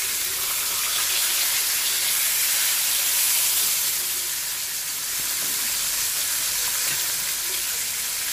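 Saba mackerel fillets frying in a pan: a steady, even sizzle of hot fat with no break.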